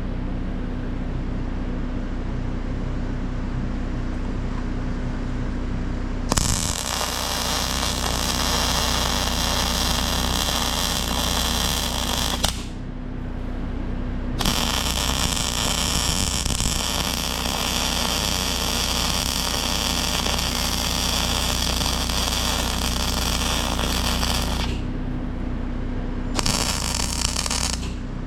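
Arc welding on the steel of a dozer blade's tilt-cylinder mount: the arc's steady crackling hiss in long beads, the first starting about six seconds in, a short break around twelve seconds, then a bead of about ten seconds and a short one near the end. Between beads a steady electrical hum.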